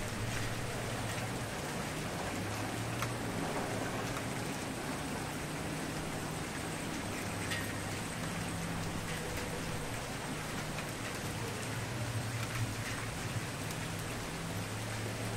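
Wood fire burning: a steady hiss with scattered crackles and small pops, one sharper pop about three quarters of the way through, over a low steady rumble.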